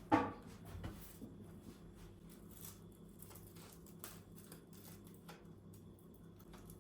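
A sharp knock just after the start with a brief ring, then faint scattered clicks and light handling noises over a low steady hum.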